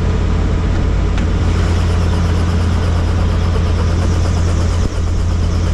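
Helicopter engine and rotor running with a loud, steady low drone.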